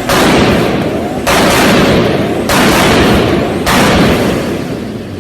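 Turbocharged car's exhaust popping and banging on a 2-step launch-control or anti-lag system: four bursts of rapid crackling bangs, each about a second long, the last one dying away.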